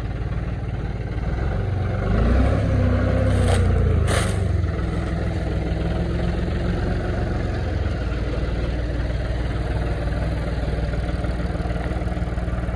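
Silage harvester's engine running steadily, swelling louder for a couple of seconds about two seconds in, with two short sharp knocks at the height of the swell.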